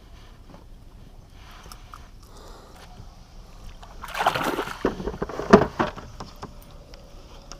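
Water splashing and sloshing at the side of a kayak, loudest about four seconds in, with a sharp knock or splash about a second later.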